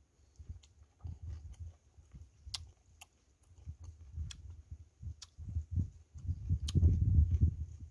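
Close-miked chewing of roast chicken, irregular wet mouth noises with a few sharp clicks, loudest near the end. A faint steady high tone runs underneath.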